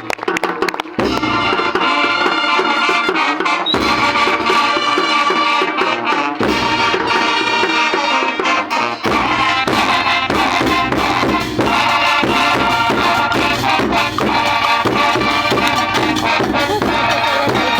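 Student band playing Bolivian folk dance music, with brass and drums. The full band comes in about a second in.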